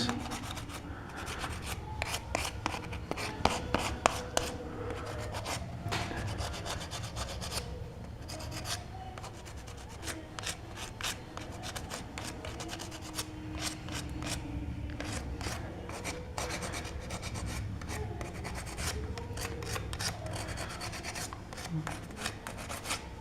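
Coarse sandpaper rubbing back and forth over gypsum decorative stone, a steady run of irregular scratchy strokes as the protruding corners and joints are smoothed level.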